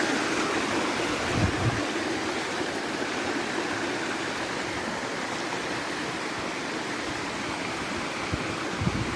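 Steady rush of water from a waterfall, with a couple of brief low bumps on the microphone.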